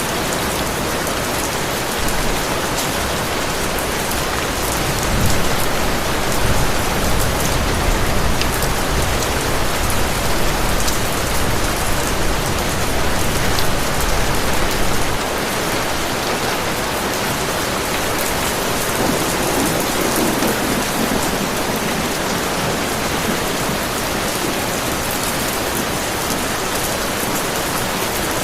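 Heavy rain falling steadily. A low rolling rumble of thunder builds about two seconds in and drops away about halfway through.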